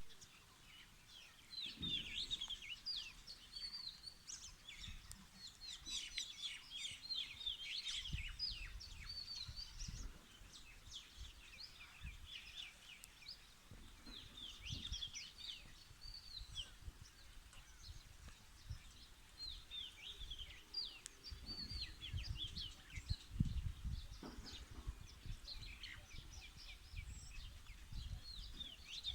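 Many small birds chirping, rapid high downward-sweeping chirps overlapping throughout, with irregular low rumbling underneath.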